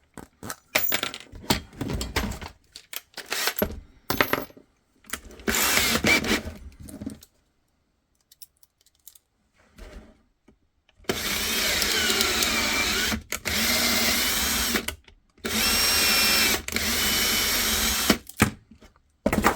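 A handheld power tool run in four bursts of about two seconds each, with a whine that wavers in pitch, used on a Kydex holster. Before the bursts come several clicks and knocks of handling.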